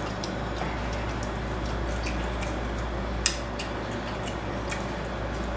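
Seafood mukbang eating sounds: scattered small clicks and wet squishes of shellfish being handled and eaten, with one sharper click about three seconds in, over a steady low hum.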